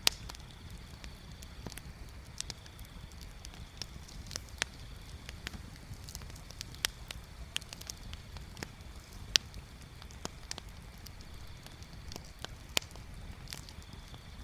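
Bonfire crackling, with irregular wood pops and snaps over a low steady rumble. The sharpest snaps come just at the start, about nine seconds in, and near the end.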